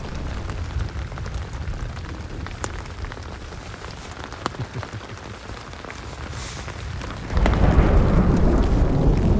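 Thunderstorm: rain falling with scattered drop ticks over a low, steady rumble of distant thunder, then about seven seconds in a loud thunderclap breaks and rolls on.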